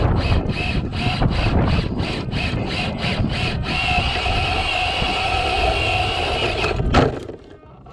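Electric motor and geared drivetrain of a Traxxas TRX-4 RC crawler working under load on rock: first pulsing about three times a second, then a steady whine that cuts off about seven seconds in with a sharp knock.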